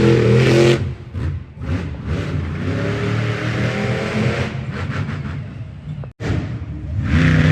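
Monster truck engines revving: loud at first, easing about a second in, running and revving at a lower level through the middle, then a loud rev again near the end.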